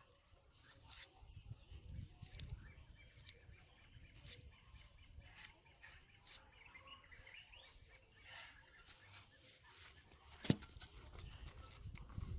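Faint outdoor farm ambience: a steady high whine with scattered short ticks and faint animal calls, and one sharp click about ten and a half seconds in.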